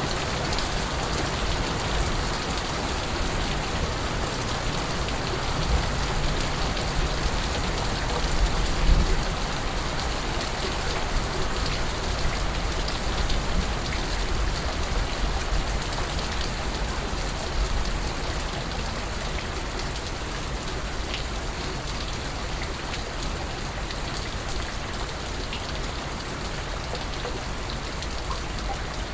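Steady rain falling and pattering on surfaces, with a low rumble swelling briefly about nine seconds in.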